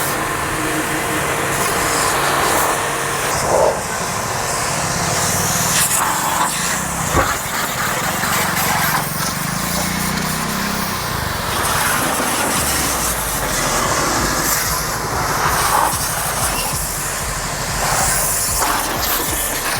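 Portable high-pressure car washer running steadily, its water jet spraying against a car.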